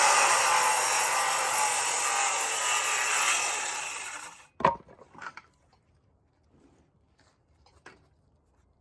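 A power tool running steadily through wood, dying away about four seconds in. A single sharp knock follows, then a few light clicks.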